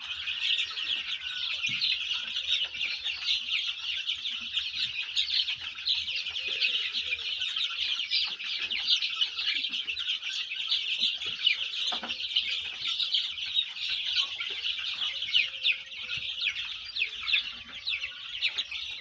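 A crowd of chicks peeping continuously, many short high calls overlapping, with occasional lower clucks among them.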